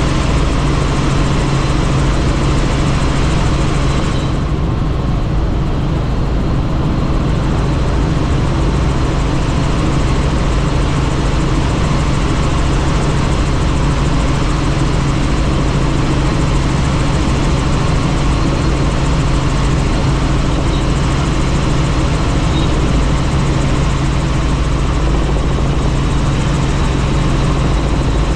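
Helicopter in flight heard from on board: a loud, steady drone of rotor and engine under a constant hiss. The hiss dims for a couple of seconds about four seconds in.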